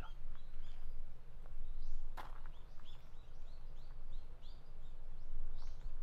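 A small bird calling, a steady run of short high chirps about two a second, with one sharp click about two seconds in.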